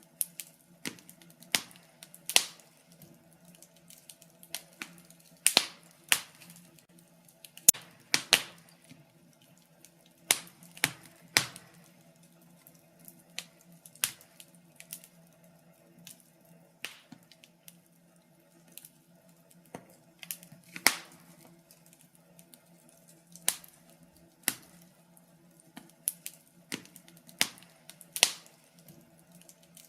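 Wood fire in a fireplace crackling, with irregular sharp pops and snaps, several much louder than the rest, over a faint steady low hum.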